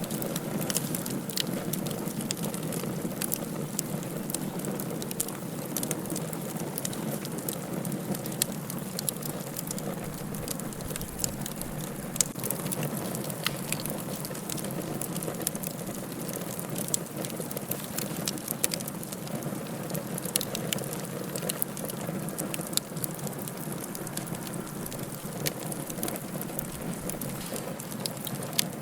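Wood fire burning in a fireplace, crackling steadily with frequent small sharp pops over a soft continuous hiss.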